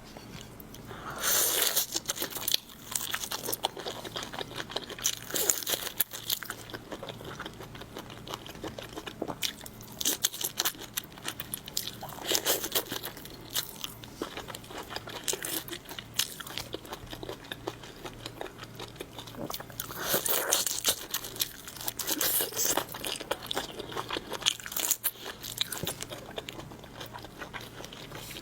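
Close-miked mukbang eating of shrimp: crisp crunching bites and chewing, with louder bursts of crunching every few seconds.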